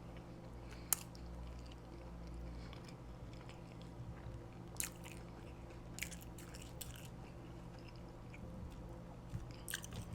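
Close-miked chewing and biting of fast food, with a few sharp crisp clicks or crunches: about a second in, around five and six seconds, and a cluster near the end. A steady low hum runs underneath.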